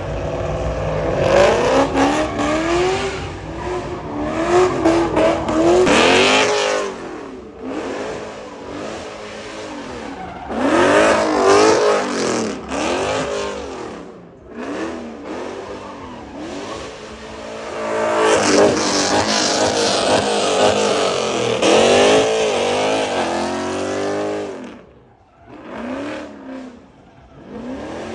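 Car engines revving hard again and again, the pitch climbing and dropping over and over in three loud spells separated by quieter stretches.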